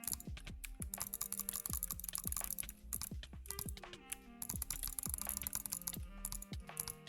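Rapid, dense clicking, much like typing on a keyboard, over electronic music with steady tones and repeated low thuds.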